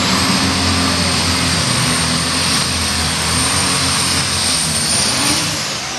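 Pulling tractor's engine running at full power under load, with a high, steady whine over the engine noise that falls away near the end.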